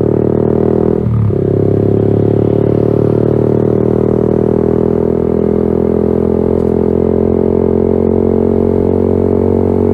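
Yamaha XSR 155's single-cylinder engine running through a LeoVince GP Corsa Evo aftermarket exhaust while riding. The engine note drops at a gear change about a second in, then holds a steady cruising pitch.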